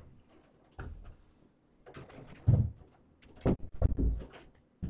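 A run of soft clicks and knocks with a few heavier low thumps, the loudest about two and a half seconds in and another pair near three and a half and four seconds.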